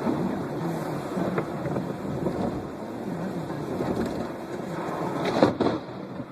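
Thunderstorm: steady rumbling noise of rain and wind, with a sudden loud crack about five and a half seconds in.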